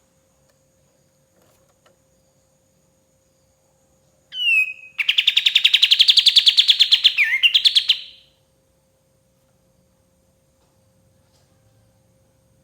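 A kapas tembak songbird singing one phrase: a short sliding note about four seconds in, then a fast rattling trill of about ten notes a second lasting some three seconds, ending in a downward slur.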